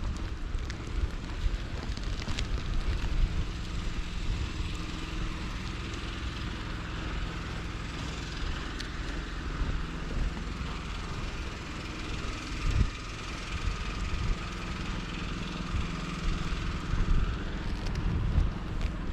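A vehicle engine and tyres working through deep snow, swelling through the middle and fading near the end, over a steady low rumble of wind on the microphone.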